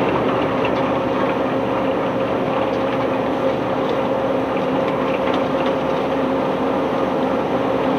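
Heavy unloading machinery running steadily: a constant engine drone with a held hum, and faint light ticks over it.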